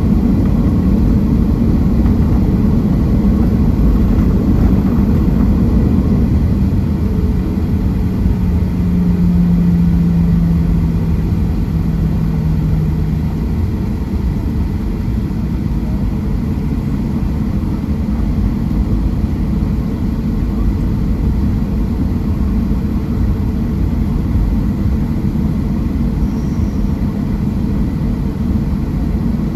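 Cabin noise of a Boeing 737-700 with CFM56-7B engines: a loud, steady rumble of engines and airflow, with a steady hum that comes in about a third of the way through and fades out a few seconds later.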